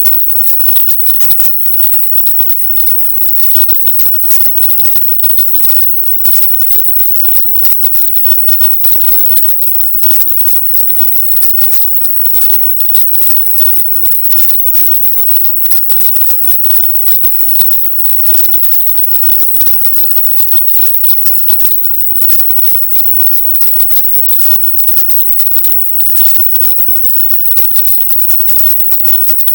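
Loud, harsh hiss with a crackly, choppy texture, strongest in the high treble and broken by constant tiny dropouts. It is a 'silent subliminal' track: layered, sped-up affirmations pushed up in pitch until they are heard only as hiss.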